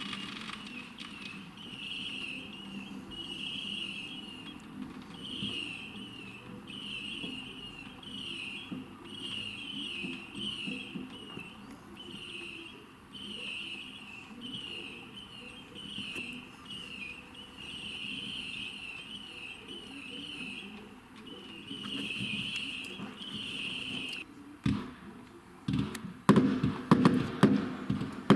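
A high-pitched sound pulsing about once a second for most of the stretch. Then, in the last few seconds, fireworks start going off: sharp bangs quickly becoming a rapid, loud volley.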